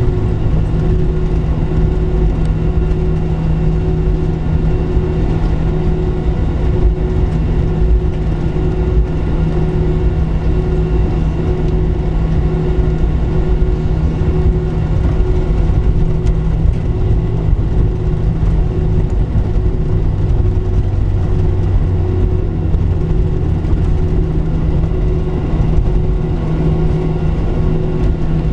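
Boeing 737-700's CFM56-7B jet engines running, heard from inside the cabin as a loud, steady drone with a faintly pulsing hum.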